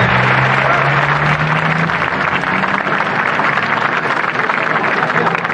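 Studio audience applauding and cheering, with a steady low hum in the first two seconds.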